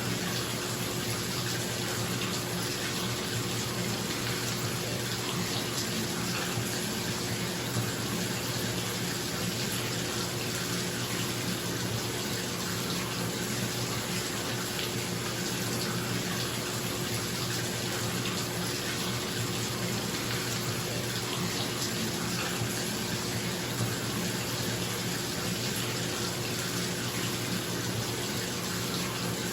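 Bathtub tap running steadily into the tub, with a bathroom exhaust fan humming a low steady tone underneath.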